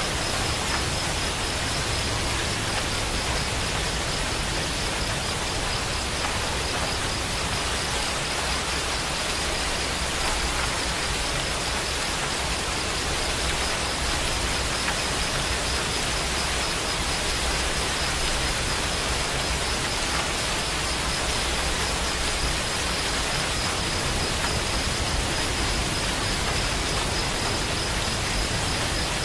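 Steady rain falling, an even hiss with no pauses or single loud drops, at a constant level throughout.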